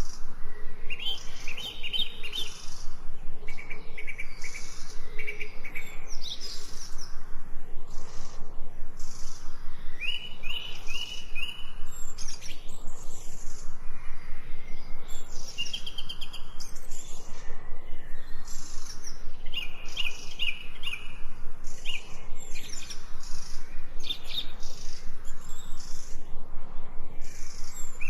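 Several songbirds chirping and trilling at once, with short repeated calls and quick sweeping notes overlapping throughout.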